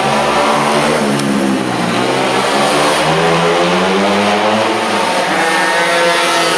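Small two-stroke pocketbike engine running at high revs, its pitch climbing and falling repeatedly with the throttle.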